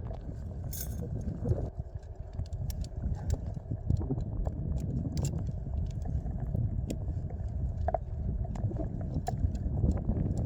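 Wind buffeting the microphone with a low, gusting rumble, with scattered light clicks and taps throughout.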